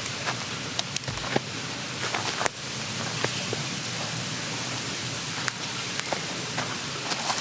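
Steady rush of a mountain stream, with scattered sharp clicks and knocks over it.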